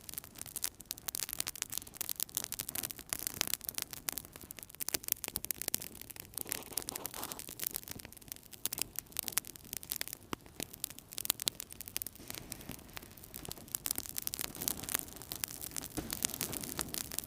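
Wood fire burning in a fireplace: dense, irregular crackling and popping over a low hiss.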